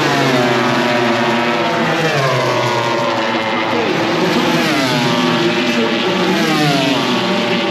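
MotoGP racing motorcycles at high revs, several engine notes overlapping, their pitch sweeping down and up repeatedly as the bikes change speed on the circuit.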